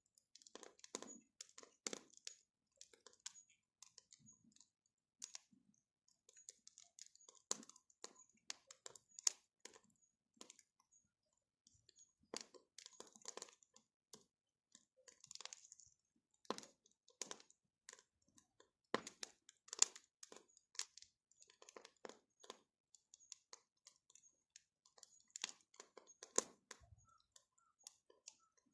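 Wood fire crackling, with irregular sharp pops and snaps of burning wood.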